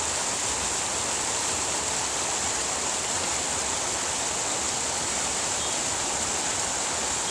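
Running water flowing steadily, an even unbroken rush with a bright hiss and no separate splashes.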